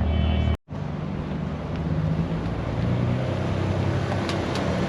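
Car engines running close by at low revs, a steady low rumble. Just over half a second in the sound drops out for an instant and resumes with another engine running, growing a little louder toward the end.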